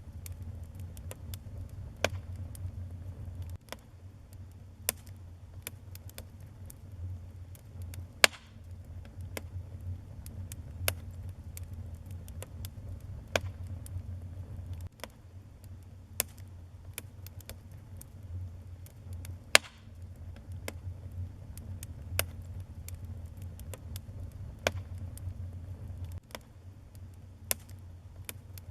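Wood fire burning in a fireplace: a steady low rumble of flames with sharp, irregular crackles and pops every second or two, two of them louder than the rest.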